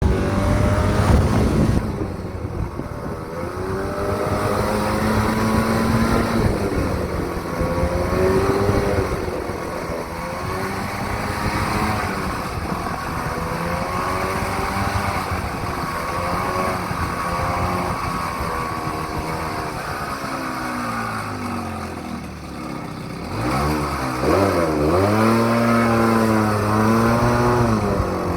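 Citystar 2-tonne light truck's engine running and being revved, its pitch rising and falling; about 22 seconds in it drops low, then climbs again a couple of seconds later. This is the strange noise the owner is puzzling over.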